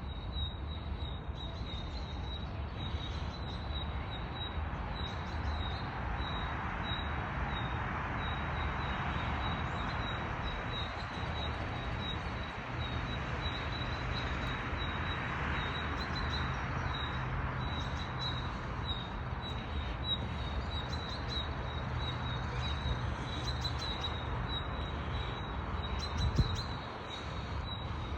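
A bird chirping one high note over and over, several times a second, over a steady outdoor hiss and low rumble. A single thump near the end.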